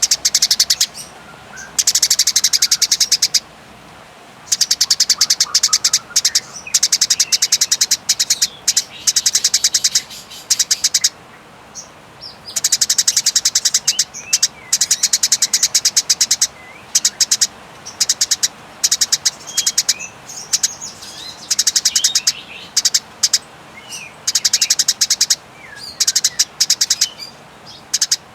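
Eurasian tree sparrows giving their fighting call: a rapid, high, drawn-out rattling chatter in long runs of a couple of seconds each, separated by short pauses. Fainter single chirps fill the gaps between runs.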